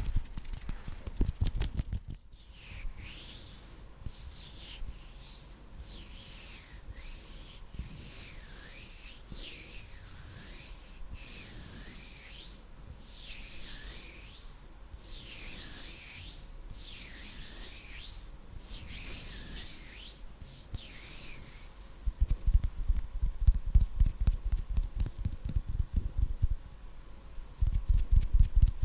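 Hands rubbing together close to the microphone in repeated swishing strokes, about one a second. Before and after the rubbing, rapid finger flutters buffet the microphone with fast, loud low thumps: briefly at the start, then again from about two-thirds of the way in.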